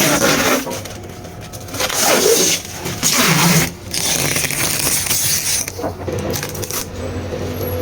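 Cleaning strokes on a washing machine's surface: a series of scrubbing and wiping passes, each about a second long, with short pauses between them.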